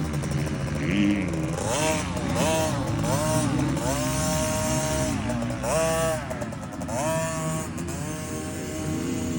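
Husqvarna TC50 50cc two-stroke mini motocross bike engine revving up and down again and again, with a few revs held high for about a second, over a steadier low engine note.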